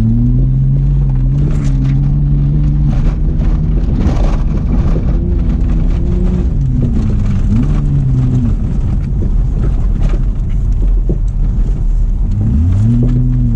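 Holden VS Commodore engine revving up and falling back over and over as the car is driven hard, with a few short rushes of noise over it, then settling to a steady drone near the end.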